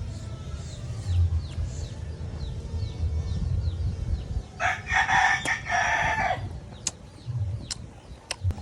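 A rooster crows once, a single call of about two seconds near the middle. Short, high, falling bird chirps repeat in the first half, over soft low thumps.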